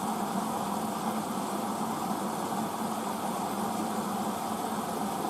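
Hoover DYN9144D3X washing machine running with a steady whirring hum, early in a Rapid 30 °C wash cycle.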